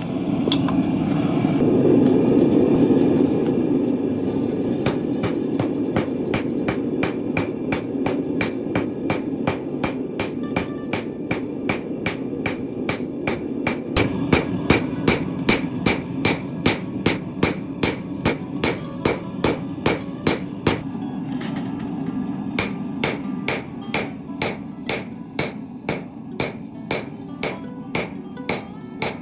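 A hammer striking steel on an anvil in a steady rhythm, about two ringing blows a second, as bearing steel is forged into a knife blade. A steady low rumble runs underneath.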